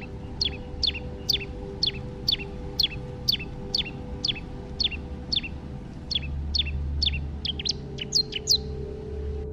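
A songbird repeats a single sharp whistled note that falls in pitch, about twice a second, quickening into a rapid run before it stops near the end. A steady low ambient music drone plays underneath.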